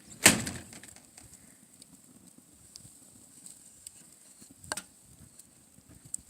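Fire crackling: a loud sharp pop right at the start and another a little before the end, with faint scattered snaps between.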